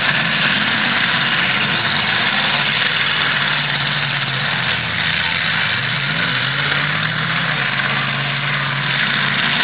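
Demolition derby car engines running, with one revving up and back down partway through, over a steady noisy din.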